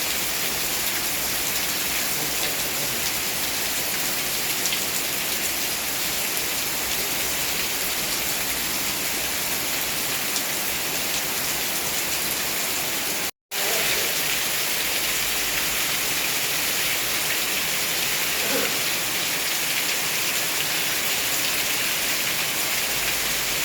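Steady rain falling and pattering on surfaces, an even continuous hiss. A split-second gap of total silence about halfway through, where the recording cuts out and resumes.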